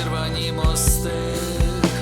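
A band playing an instrumental passage: a drum beat of regular sharp hits under sustained guitar and bass tones, with a cymbal-like hiss a little under a second in.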